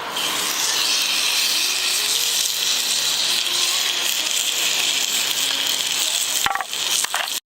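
Food sizzling in a pan with a steady hiss, a knock about six and a half seconds in, then the sound cuts off suddenly.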